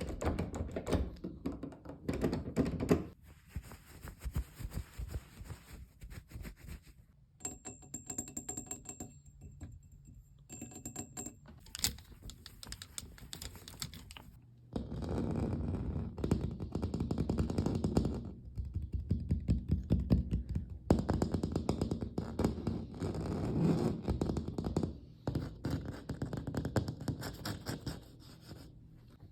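Close-miked ASMR tapping and scratching with fingers on objects: quick runs of clicks and taps, like fast typing. A quieter stretch of faint ticking and a thin steady high tone comes about a third of the way in, and dense tapping fills the second half.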